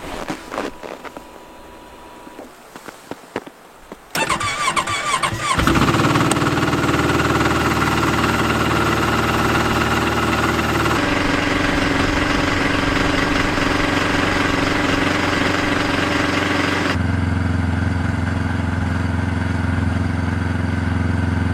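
Yamaha snowmobile engine starting about four seconds in, after a few light knocks, then running steadily. Its pitch changes abruptly twice.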